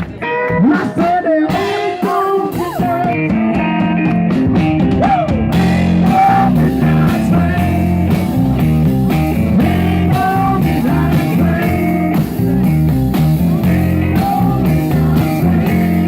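Live blues band playing: bending electric guitar lines over the band, which settles into a steady beat with bass and drums after the first few seconds.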